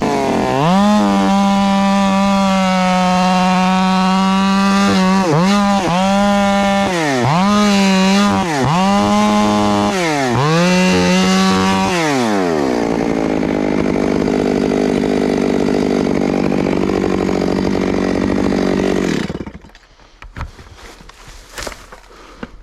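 Chainsaw running at full throttle, revved down and back up several times. It then drops to a lower, rougher pitch as it cuts through a small spar tree, and shuts off abruptly about 19 seconds in. A few faint knocks follow.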